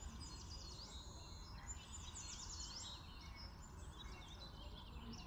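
Faint birdsong: several bursts of quick, rapidly repeated chirps, about a second in, again around two seconds and once more near four seconds, over a low steady background hum.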